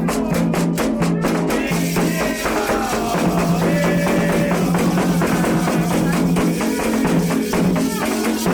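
Candomblé ritual music: drums and rattles beating a steady rhythm, with voices singing over them.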